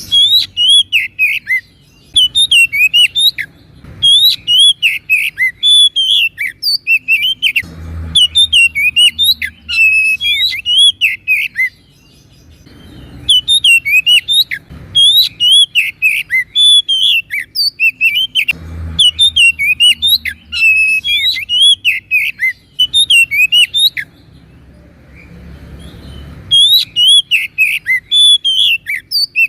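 Oriental magpie-robin singing continuously in bouts of rapid, varied whistles and chirps, with short pauses between bouts.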